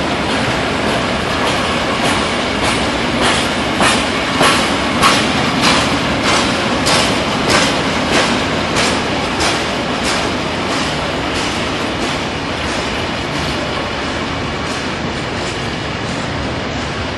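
Freight train's wagons rolling past, empty flat wagons then covered box vans, their wheels clacking over the rail joints in a regular beat about every 0.6 s over a steady rumble. The clacks are loudest a few seconds in and fade into a smoother rumble in the second half.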